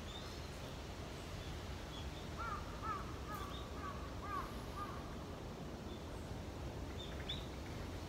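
Wind buffeting the microphone in a steady low rumble. About halfway through, a bird calls a quick run of short arching notes, and a few faint high chirps come through.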